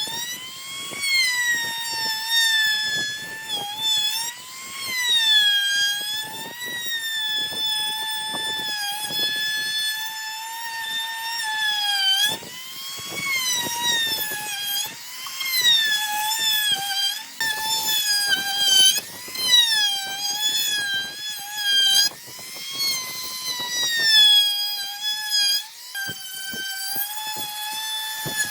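High-pitched whine of an electric power tool, its pitch dipping and recovering over and over as it is loaded, over dense rattling and scraping.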